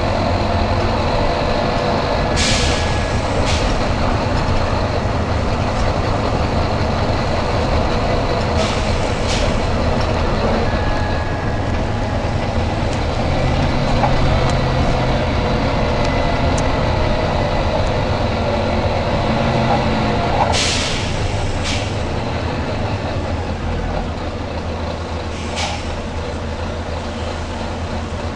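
Volvo B9TL double-decker bus's six-cylinder diesel engine running steadily, with short, sharp hisses of compressed air from the bus's air system. The hisses come in pairs about a second apart, three times, then once more near the end.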